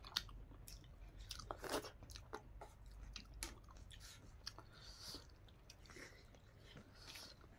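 Quiet chewing and mouth smacks of a person eating rice and greens by hand, with soft scattered clicks.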